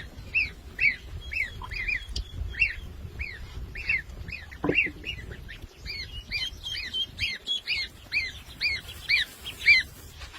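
A bird calling in a steady series of short, high chirps, about two a second.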